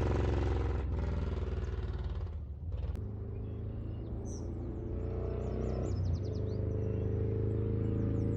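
Harley-Davidson Road Glide's Milwaukee-Eight V-twin, fitted with an SS 475 camshaft and Mutazu 2.0 megaphone slip-on mufflers, running at a low, even note that fades over the first few seconds and then holds steady. Birds chirp faintly from about the middle on.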